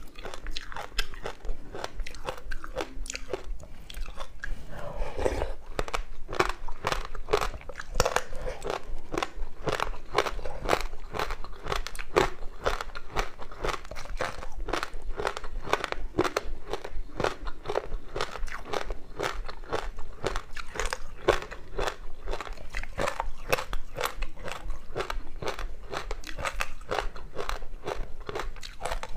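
Close-miked crunching and chewing of frozen passion-fruit ice with sesame seeds, a steady run of rapid crackly crunches.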